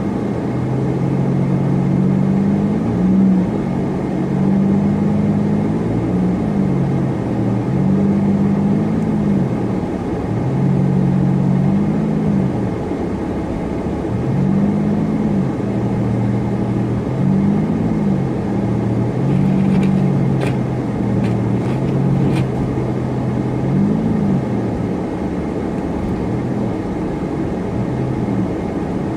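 Supercharged car driving, its engine hum rising and falling in pitch again and again over steady road noise. A few light clicks come about two-thirds of the way through.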